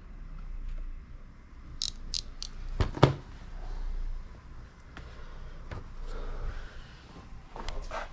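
Scattered clicks and knocks, as of small hard objects being handled: three quick, sharp high clicks about two seconds in, then two louder knocks a moment later, with lighter clicks near the end.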